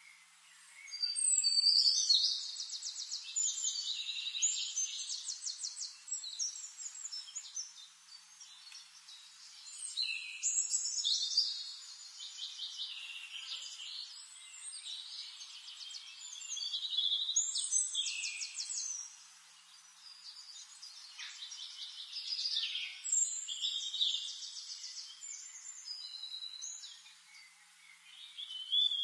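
A songbird singing high-pitched phrases of chirps and rapid trills, a new phrase about every six seconds.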